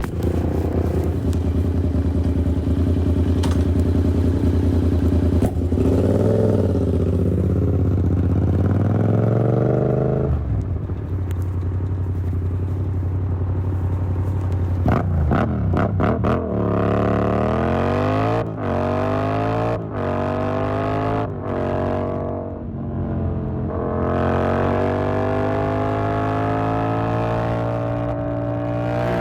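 Yamaha MT-07's parallel-twin engine through an SC Project exhaust: steady cruising, the throttle closing about ten seconds in, then hard acceleration up through several gears, the note rising and briefly dropping at each upshift, and a steady climb in pitch near the end.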